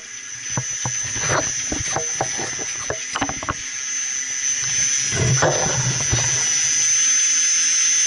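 Chiller-plant water pumps starting up, their sound building steadily louder with a steady high whine and a low hum. Irregular clicks and knocks run through the first six seconds, then the running sound settles.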